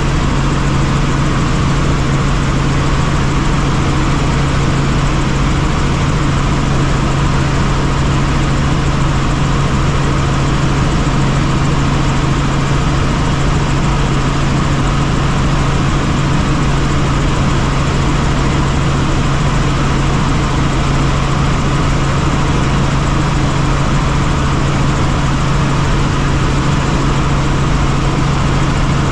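Helicopter in flight heard from on board: a steady, loud drone of rotor and turbine with a strong constant low hum, unchanging throughout.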